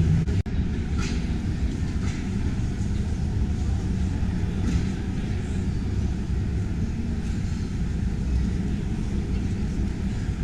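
Steady low background roar of a busy exhibition hall, with a brief dropout about half a second in.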